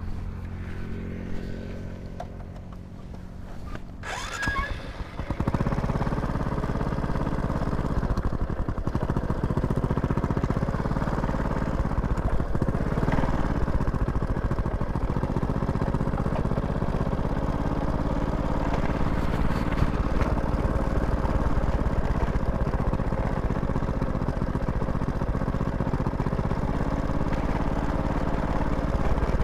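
An engine running steadily with a low, even drone. It gets louder and fuller about five seconds in, then holds steady.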